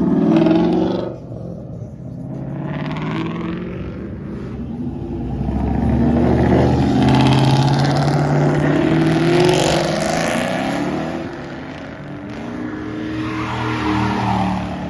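Car engines revving and accelerating past one after another, rising and falling in pitch, with the loudest pass in the middle.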